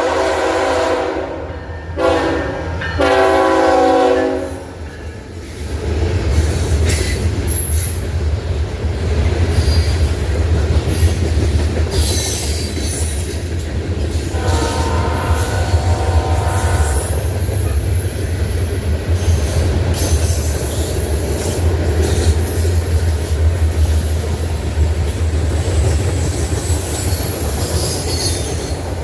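Norfolk Southern train's air horn sounding: one blast ending just after the start, then two shorter blasts. From about five seconds in, the train passes close by with a heavy low rumble of locomotives and cars on the rails, and the horn sounds again partway through.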